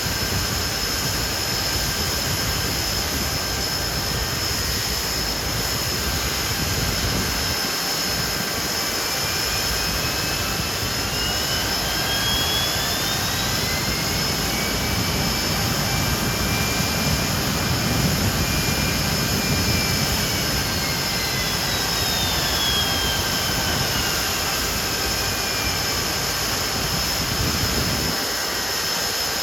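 Hawker Siddeley Nimrod's Rolls-Royce Spey turbofan engines running, with a steady high whine over the engine noise. A whine rises over several seconds, holds, then falls back near the end as the power is brought up and let down.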